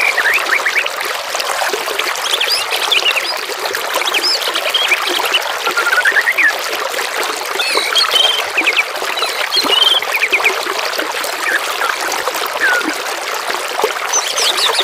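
Steady trickle of flowing water, with many short songbird chirps and quick trills over it from several birds.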